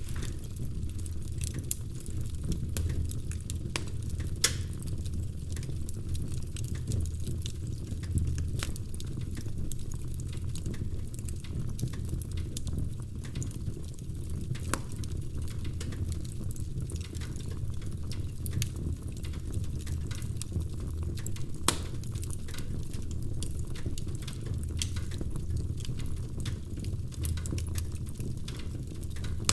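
Wood fire crackling in a fireplace: a dense scatter of sharp crackles and pops over a steady low rumble of the flames, with a few louder pops, about four, eight and twenty-two seconds in.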